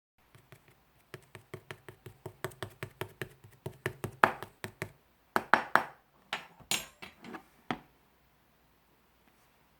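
A quick series of light taps, about four a second, then a short pause and a few louder taps before they stop about eight seconds in.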